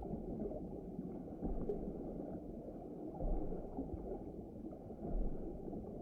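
Muffled water ambience: a steady low wash with nothing in the upper pitches, swelling softly a few times.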